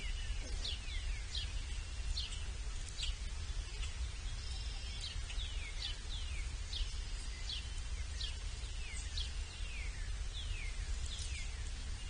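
Birds chirping over and over in short, high calls that each slide down in pitch, over a steady low rumble.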